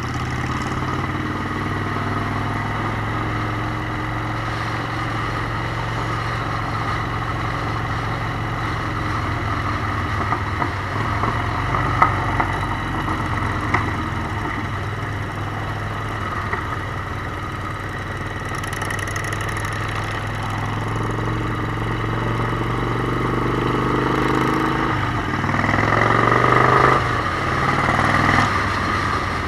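Motorcycle engine running steadily on a ride, with a few sharp ticks about halfway through. Near the end it rises in pitch and gets louder as it accelerates, then drops back.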